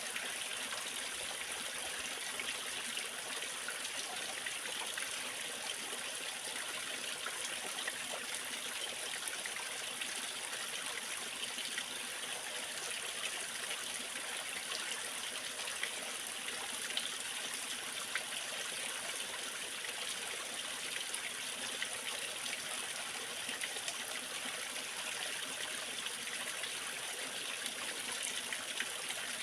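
Waterfall and stream water splashing and rushing in a steady, unbroken hiss.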